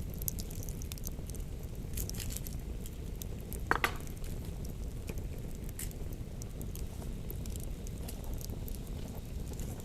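Campfire crackling: scattered small sharp pops over a steady low rumble, with one louder snap about four seconds in.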